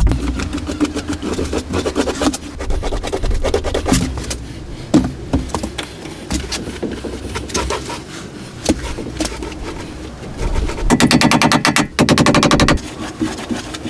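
Restoration work noise: scattered knocks and clicks, then two fast rattling bursts of a power tool near the end.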